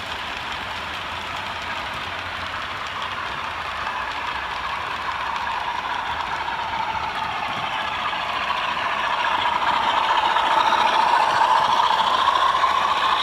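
OO gauge model train running along the track, its wheels rolling on the rails, with a steady running noise. It grows louder from about two thirds of the way in as the train draws near.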